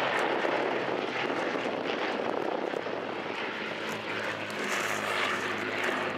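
Propeller-driven WWII piston-engined warbirds flying by, a steady engine drone whose pitch sits a little lower from about four seconds in.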